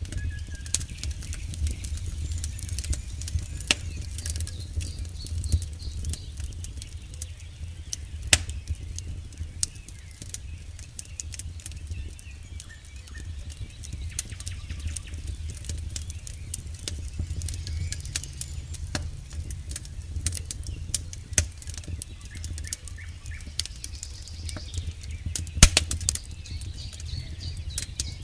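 Campfire burning: a steady low rumble of the flames with frequent sharp crackles and pops from the burning wood, one pop louder than the rest near the end.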